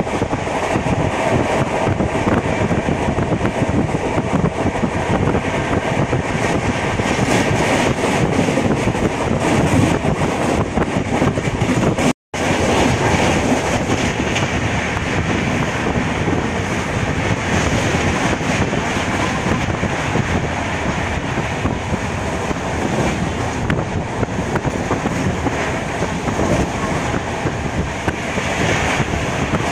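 Running noise of an Indian Railways express passenger coach at speed, heard from a seat by the open, barred window: a loud, steady rumble of the wheels on the rails. The sound cuts out for a moment about twelve seconds in.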